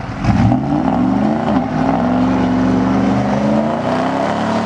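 Pickup truck engine revving up hard and held at high revs while the truck sits stuck in snow with its wheels spinning and going nowhere. The revs dip briefly about a second and a half in.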